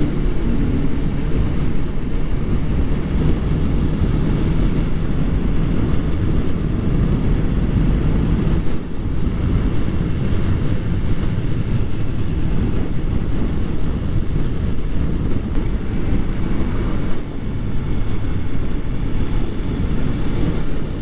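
Kawasaki Ninja 400 parallel-twin engine running steadily at riding speed, under a heavy rush of wind and road noise. The sound dips briefly twice.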